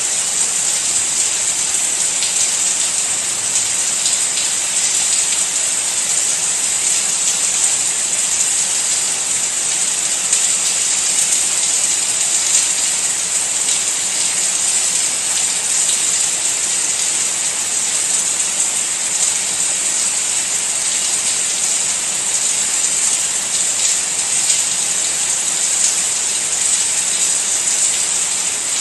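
Rain falling steadily: an even, unbroken hiss, brightest in the high treble.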